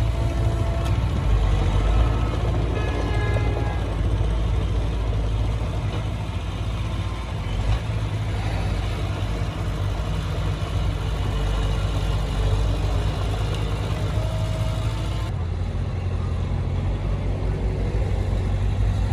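Heavy diesel engine of earthmoving machinery running steadily, with a continuous low drone. Near the end the higher part of the sound drops away abruptly while the low drone carries on.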